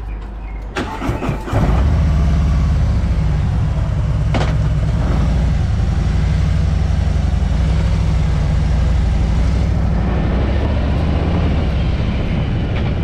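Harley-Davidson Road King Special's V-twin engine cranking and catching about a second and a half in, then idling steadily.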